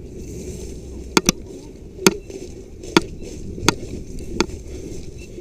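A series of sharp clicks or knocks: a quick pair about a second in, then four more roughly one every second, over a steady low rumble.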